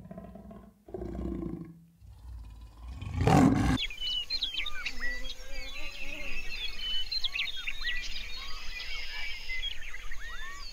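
A jaguar growling in a few short bursts, then one loud roar about three seconds in. After it, small birds chirp and twitter steadily.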